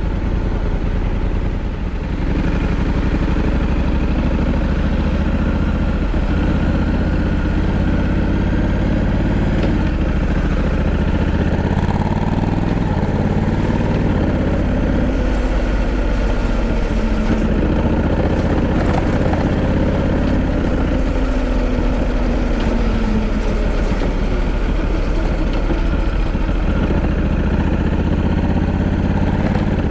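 Honda Africa Twin 1100's parallel-twin engine running under way, its pitch rising and falling in steps with throttle and gear changes.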